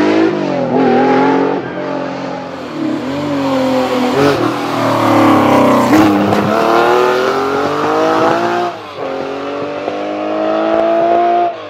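Porsche 911 rally cars' air-cooled flat-six engines accelerating hard out of a hairpin. The engine note climbs through each gear and drops back sharply at the shifts, several times over.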